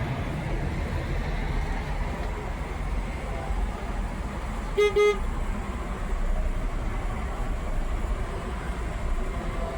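A vehicle horn gives two short toots in quick succession about five seconds in, over the steady low rumble of the idling truck's engine heard from the cab.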